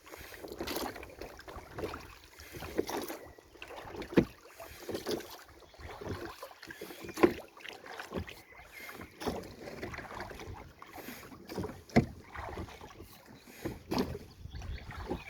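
Canoe being paddled: irregular splashing and swishing of paddle strokes in the water, with a few sharp knocks.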